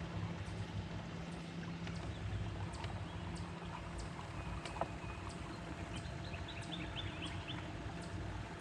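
Water lapping and small knocks against a small fishing boat. A low hum fades out about two seconds in, and a bird sings a quick run of high notes a little past the middle.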